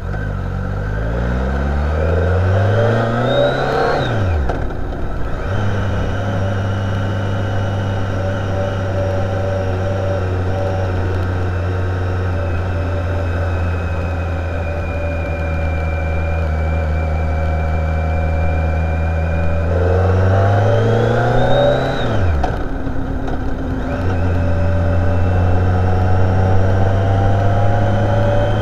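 Motorcycle engine under way, accelerating with rising pitch and then dropping sharply at a gear change about four seconds in. It runs at a steady pitch for a long stretch, then climbs again and shifts a second time a little past twenty seconds before settling back to steady running.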